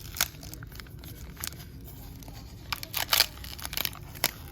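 Packaging being handled and torn open: several short, sharp crinkling rips, the loudest cluster about three seconds in.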